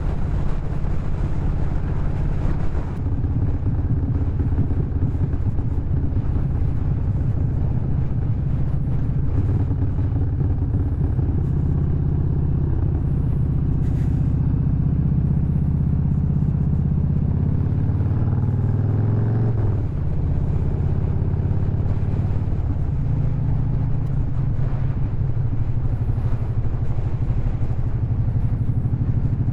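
Harley-Davidson V-twin motorcycle engine running under way on the road. About 17 seconds in the pitch climbs steadily as it revs up, then drops abruptly near 20 seconds before settling back to a steady run.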